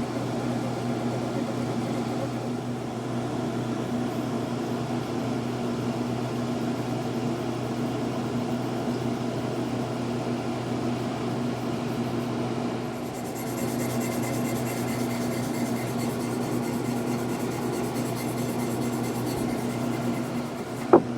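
Steady machine hum with a low, even buzz, like a running fan or air conditioner, and a single sharp click just before the end.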